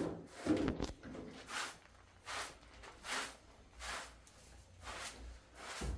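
Rhythmic swishing strokes of hand cleaning, a little more than one a second, each a short rush of noise.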